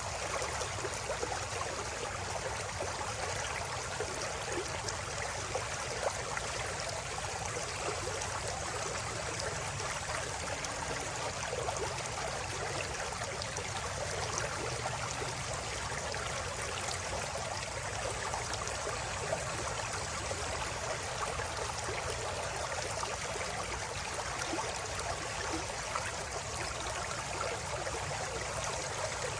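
River water flowing and babbling over stones, a steady rushing with fine splashing and gurgling detail.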